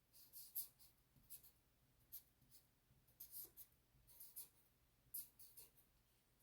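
Faint scratching of handwriting: short pen strokes in small clusters, roughly once a second, as terms are written out.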